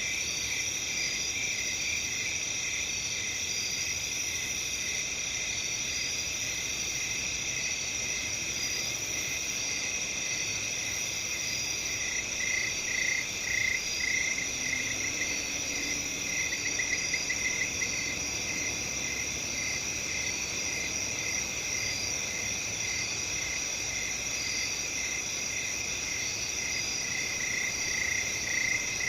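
Chorus of crickets, several steady high trills layered together. A louder pulsing chirp stands out about twelve seconds in and again near the end.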